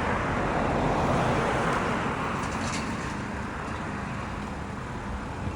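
Road traffic noise: a passing vehicle's tyre and engine sound swells about a second in, then slowly fades.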